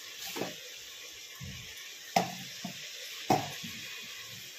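Mutton and onions sizzling steadily in oil in an aluminium pressure cooker, with three sharp knocks of metal on the pot: about half a second in, just after two seconds, and just after three seconds, the last two the loudest.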